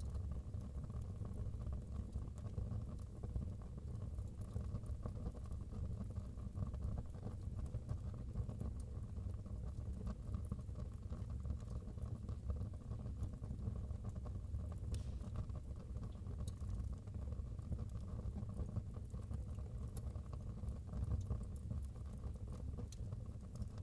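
Wood fire burning in a fireplace: a steady low rumble with scattered faint crackles and pops of the burning firewood.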